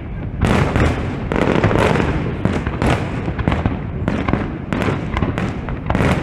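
Aerial fireworks display going off in rapid succession: dense overlapping bangs and crackling with no pause.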